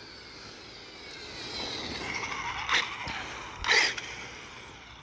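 Electric motor of a 4S RC car whining as it drives, the pitch gliding up and down as it speeds up and slows, louder in the middle. Two short sharp noises come near the middle.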